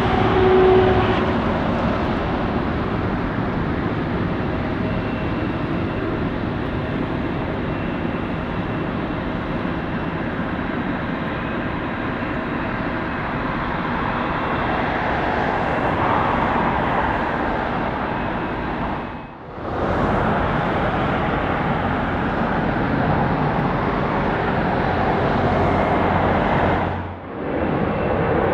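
Jet engine noise from an arriving Boeing 747-400 freighter at an airport: a steady, noisy rush of sound. It drops out briefly about two-thirds of the way through and again near the end.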